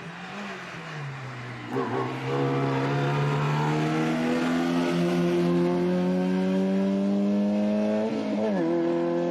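Hillclimb race car engine. Its pitch sinks for the first two seconds, then climbs steadily under hard acceleration for about six seconds, with a quick dip and recovery about eight seconds in: a gear change.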